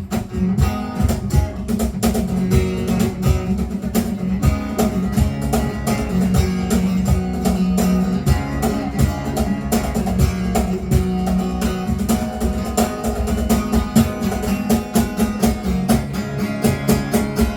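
Instrumental break of a live acoustic band: guitars strummed and plucked over a steady cajon beat, with no singing.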